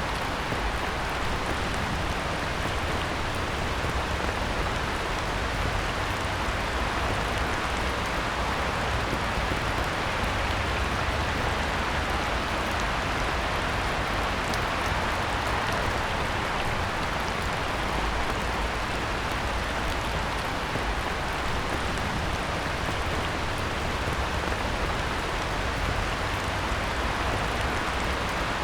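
Heavy rain pouring steadily onto a pond, a dense even hiss of drops hitting the water.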